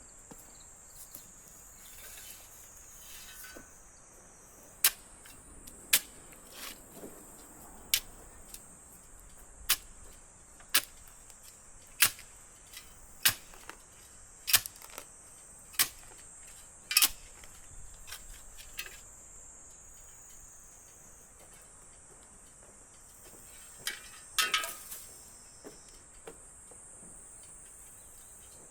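Steady high-pitched insect drone with a series of sharp knocks, about one a second for some twelve seconds, then a short cluster of knocks near the end.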